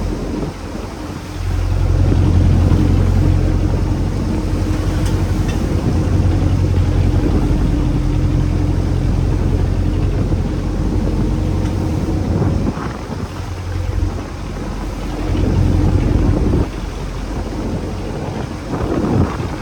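Fishing boat's engine running steadily at sea, getting louder about a second and a half in and easing off briefly twice later, with wind buffeting the microphone.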